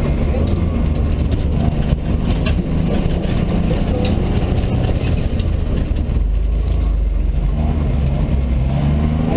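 Mitsubishi Colt rally car's engine, heard from inside the cabin, running hard at speed with its pitch rising and falling as the driver accelerates, lifts and changes gear.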